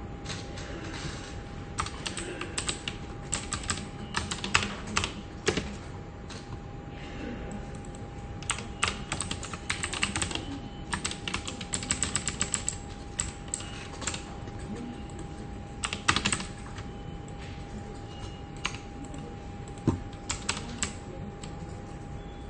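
Computer keyboard typing: runs of quick key clicks in bursts, broken by short pauses, over a steady faint hum.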